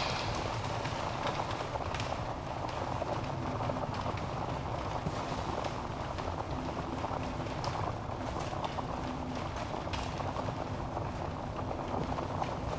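Wood logs burning in a fireplace: the steady hiss of the flames with irregular crackles and pops, and a few louder snaps every two or three seconds.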